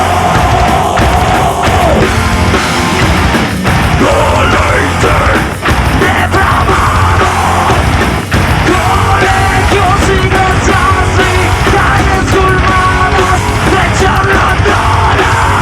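Live heavy metal band playing loudly, with dense distorted instruments and pounding drums under a harsh shouted lead vocal. A held sung note at the start breaks off about two seconds in.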